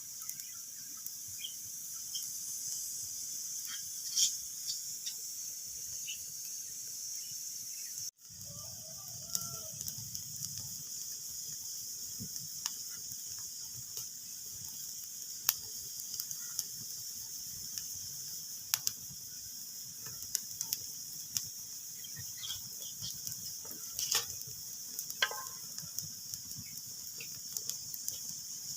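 Wood fire crackling: a steady hiss with irregular sharp pops and snaps. The sound cuts out for an instant about eight seconds in.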